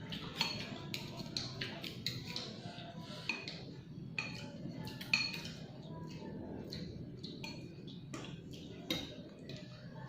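Spoon clinking and scraping against a bowl of bakso meatball soup while eating: many short, irregular clinks.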